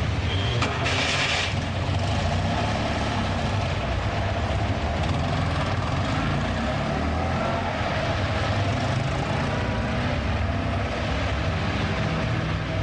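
Car engine sound effect running steadily with a low rumble as the car sets off, with a short hiss about a second in.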